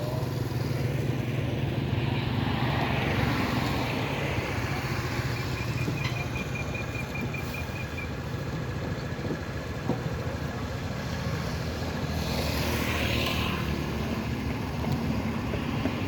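Road traffic: motor vehicles running steadily, with louder swells twice as vehicles pass.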